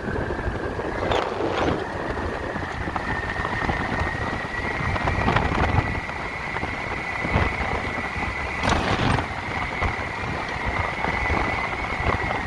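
Electric motorcycle riding, its motor giving a steady high whine that climbs slightly at the start and then holds, over wind and road rumble. A few short knocks come through, the loudest a little after the middle.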